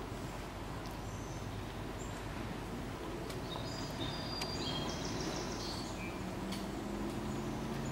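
Steady background hiss with scattered short, high chirps of small birds, thickest around the middle, and a faint low hum that comes in over the second half.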